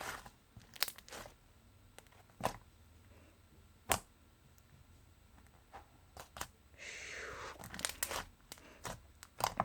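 Slime squished and stretched by hand, giving scattered sharp clicks and pops and, about seven seconds in, a short tearing crackle.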